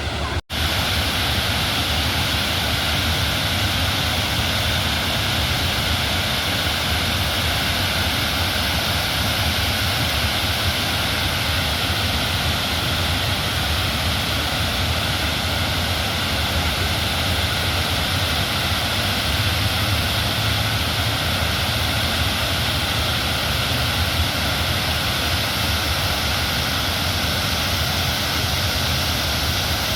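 Fast floodwater of a river in spate after torrential rain, a loud, steady rush, broken by a momentary dropout about half a second in.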